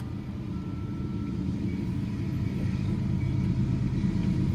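Diesel freight locomotives running, a steady low engine rumble that grows slowly louder as the train approaches.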